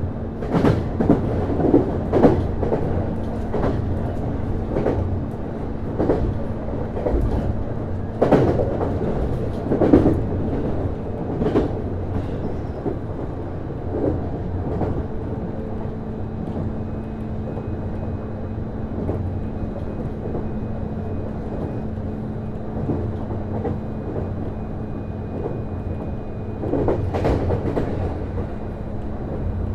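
Interior running sound of a JR East HB-E210 series hybrid diesel-electric train under way: the wheels click irregularly over rail joints over a steady low hum. The clicks come in bunches in the first half and again near the end. A thin high whine comes in about halfway.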